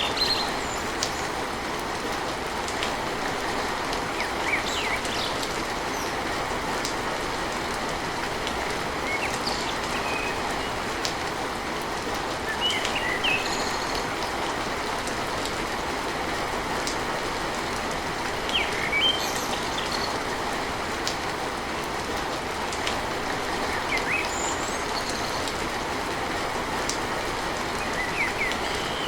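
Steady heavy rain drumming on a tin roof, an even hiss with no letup, with short high-pitched sounds cropping up every few seconds.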